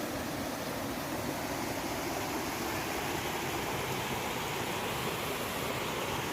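Steady rushing of flowing water, a stream running over rocks.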